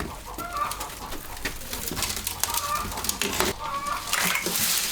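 Short bird calls repeated four or five times, about a second apart, among scattered clicks and knocks.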